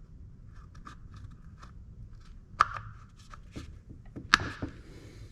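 Light clicks and taps of chainsaw parts being handled while the air cleaner is fitted, with two sharper clicks about two and a half and four seconds in.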